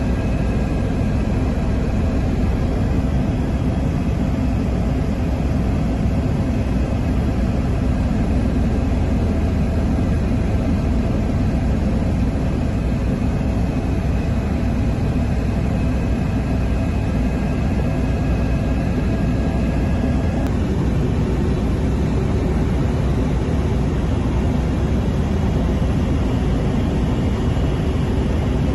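Écureuil helicopter in flight, heard from inside the cabin: a loud, steady turbine and rotor drone with a few steady tones over it, which shift slightly about twenty seconds in.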